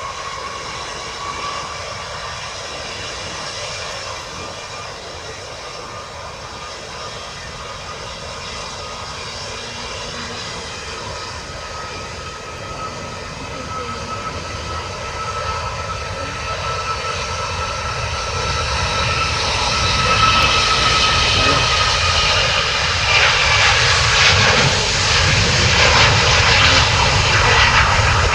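Boeing 737 MAX 8 jet engines running with a steady whine over a broad rush of engine noise, growing steadily louder over the last ten seconds or so.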